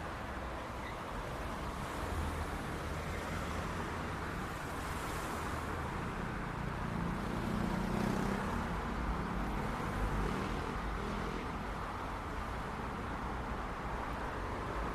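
City street traffic ambience: a steady rumble and hiss of cars, with a vehicle's engine louder about halfway through and others passing by.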